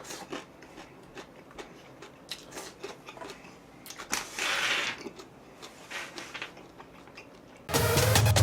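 Scattered light clicks and taps, with a brief rustle about halfway through: small handling noises at a table. Near the end, loud electronic music with a heavy beat starts abruptly.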